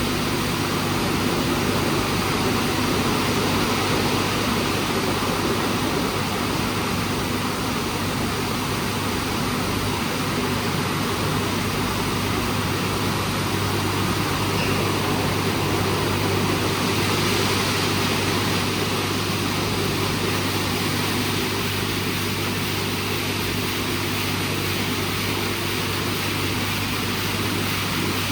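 WashTec SoftCare² Pro rollover car wash running through its program: steady machine and spray noise over a constant low hum.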